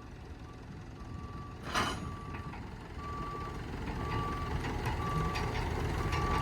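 A vehicle's reversing alarm beeping about once a second over a running engine that grows gradually louder, as a machine reverses while lifting a hedge cutter off a tractor. There is a single sharp knock about two seconds in.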